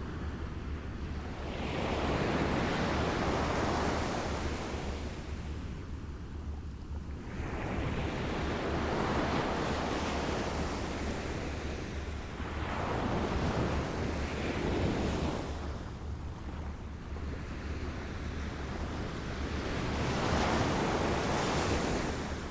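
Small waves lapping on a shore, washing in and ebbing away in four slow swells about six seconds apart, over a steady low rumble.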